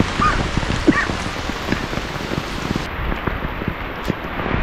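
Heavy rain falling, a steady hiss full of many separate drop hits. Two short high chirps come in the first second.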